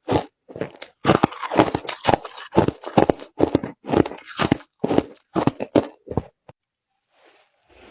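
Close-up chewing of crushed ice: a quick, even run of crisp crunches, about three a second, that stops about six seconds in.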